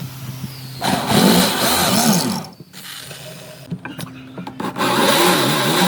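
Electric power tool running steadily, cutting into wood twice, about a second in and again near the end. Each time the motor's pitch dips and recovers under the load.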